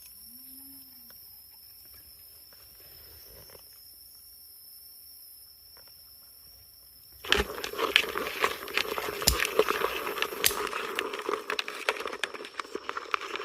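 A quiet stretch with a steady thin high tone, then, about seven seconds in, loud irregular rustling and crackling starts abruptly and carries on, like dry leaves or brush being disturbed.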